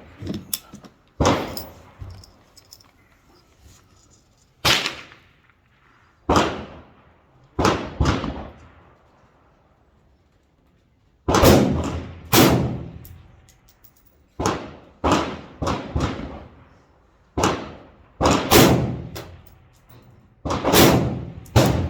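Gunshots from a PSA M4-clone 5.56 rifle fired one at a time at an uneven, unhurried pace, each sharp crack trailing off in a short echo. There are roughly fifteen shots, with a pause of a few seconds about halfway through.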